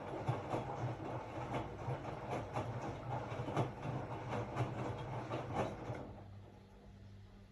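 Hotpoint-Ariston RSG 825 J washing machine drum turning with a steady motor hum and repeated irregular knocks from the tumbling load. About six seconds in the knocking dies away and the drum pauses, as it does between turns in a wash cycle.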